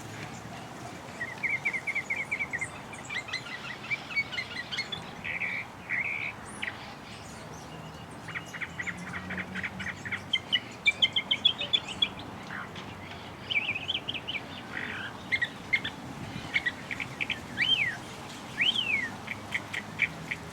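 Birds chirping and calling: quick trills and fast runs of short notes, with a few sliding whistled notes near the end.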